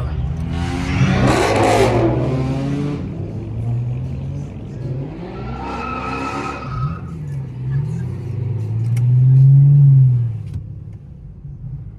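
Car engines revving and accelerating as cars pull away, the engine note rising and falling, with a rush of noise about one to three seconds in. The loudest engine swell comes about nine to ten seconds in, then fades.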